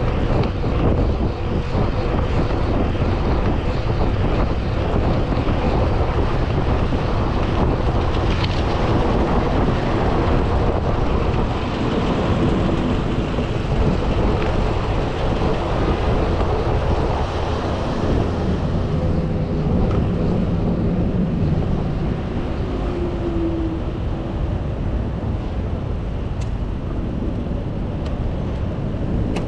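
Steady motor-traffic noise with wind rushing on the microphone.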